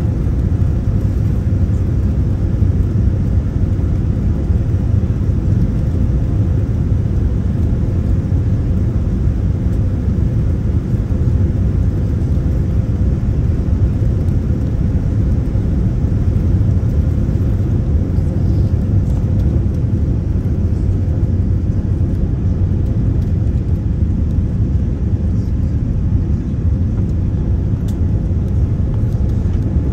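Airliner cabin noise: a steady low rumble of engines and airflow heard from inside the passenger cabin, with a faint steady hum above it.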